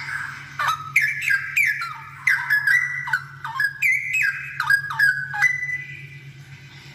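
Straw-headed bulbul (cucak rowo) singing loudly: a rapid run of whistled notes, about three a second, many sliding down in pitch, trailing off into a softer, steadier note near the end. A steady low hum runs underneath.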